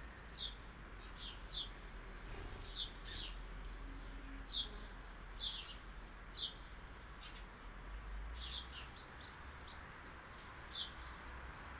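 A small bird chirping: short, high chirps, one to three at a time with pauses between, over a steady faint hiss.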